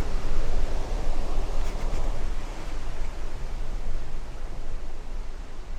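Steady rush of wind and sea heard from a cruise ship's balcony, with wind rumbling on the microphone. It gradually fades out over the last few seconds.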